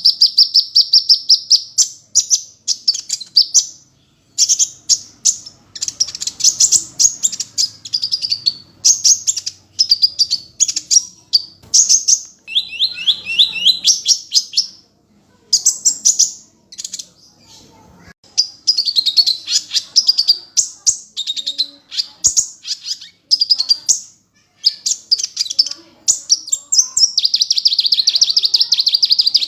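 Sunbird known in Indonesia as the 'kolibri ninja' singing: rapid, high-pitched trills and chirps in phrases of one to three seconds with short pauses between them.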